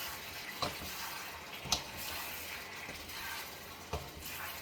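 Chicken frying in a pan with a steady sizzle, and three sharp clicks of a utensil against the pan, the loudest a little under two seconds in.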